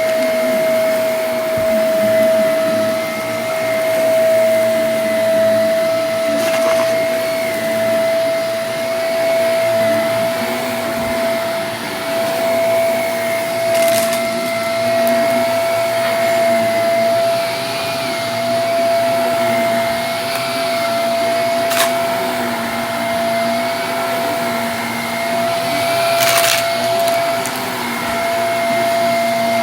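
Vacuum cleaner running steadily with a high motor whine, with a few brief sharp clicks from debris being picked up.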